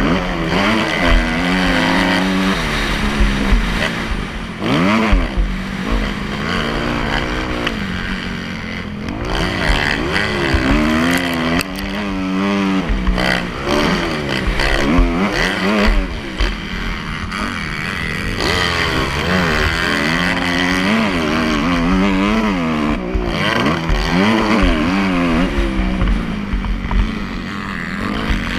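Motocross dirt bike engine revving up and down over and over, its pitch repeatedly climbing and dropping through the gears as it accelerates and backs off.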